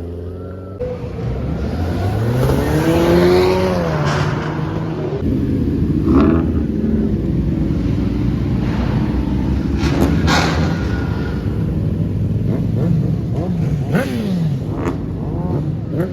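Car engines running loudly, one revving up and falling back about a second in. Another rev comes near the end, with a few sharp cracks in between.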